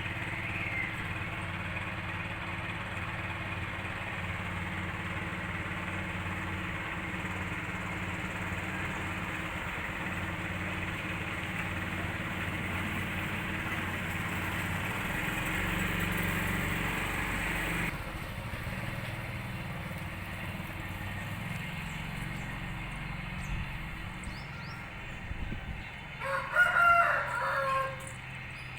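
Steady background noise, then a rooster crowing once, loudly, near the end.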